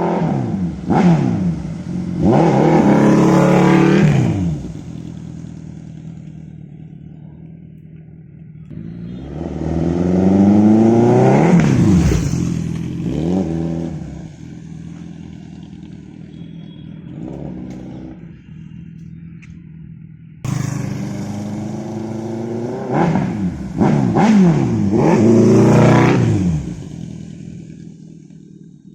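Suzuki Hayabusa's inline-four engine through a loud exhaust, revved hard three times. Each time the pitch climbs and drops quickly, and it runs at a lower, steady note between the revs.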